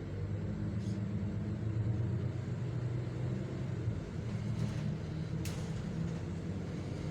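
Solaris Urbino 12 city bus driving, its engine and drivetrain giving a steady low hum as heard from the driver's cabin. The hum is strongest in the first few seconds and eases a little after about four seconds. Three short clicks come through, about a second in and twice more around the fifth second.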